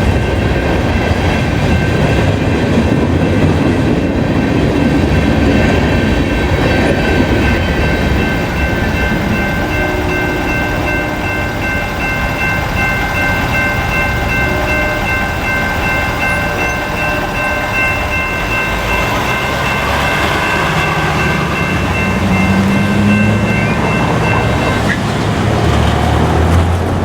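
A freight train's cars rolling through a grade crossing, with steady wheel rumble and clatter. A steady high-pitched ringing tone runs over it and cuts off near the end.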